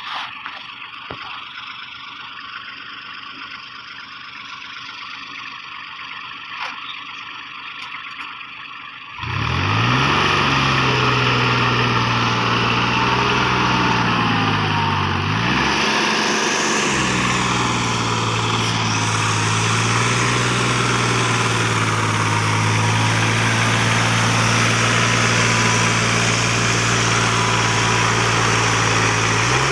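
A heavy machine's engine running: faint at first, then about nine seconds in it suddenly becomes loud and close, running steadily with one brief dip and rise in pitch a few seconds later.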